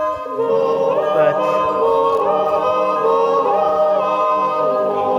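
Background music: a choir of voices singing long held chords in harmony, the chord shifting every second or so.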